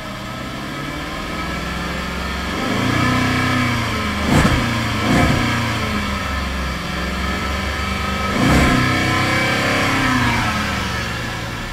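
A 2011 Jaguar XF's naturally aspirated 5.0-litre V8 revved while parked, heard from inside the cabin. It climbs twice and falls back toward idle each time, with a few brief sharp knocks among the revs.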